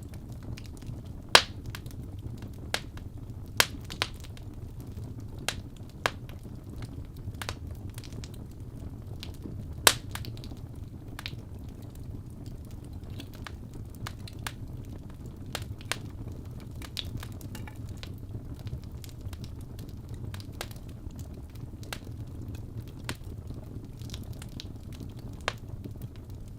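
Wood fire burning in a fireplace: a steady low rumble of flames with irregular sharp crackles and pops from the burning logs, the loudest pops about a second in and about ten seconds in.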